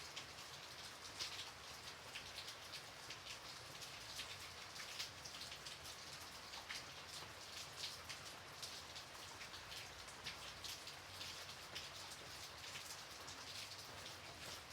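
Gentle, steady rain: a soft even hiss with many separate drops ticking on a surface.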